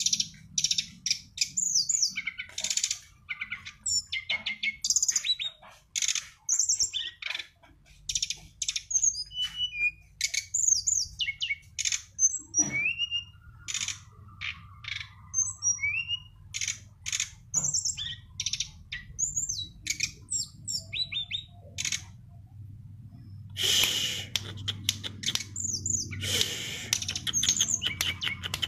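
Brown-chested jungle flycatcher (sikatan rimba dada coklat) singing a rapid, varied song of high chirps, quick upward and downward slurred whistles and trills. It grows denser and louder near the end.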